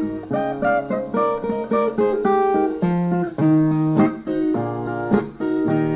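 Brazilian viola playing an instrumental break between sung verses: a run of plucked single notes and short strums.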